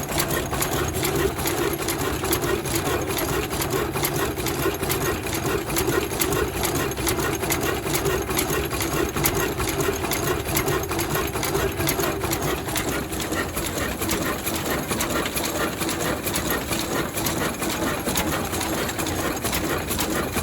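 Vintage Ruston stationary diesel engine running steadily, with a fast, even mechanical clatter.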